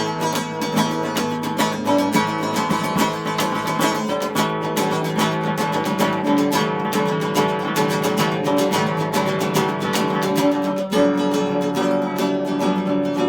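Acoustic guitar instrumental: quick plucked notes over strummed chords, with a momentary break a little before eleven seconds in.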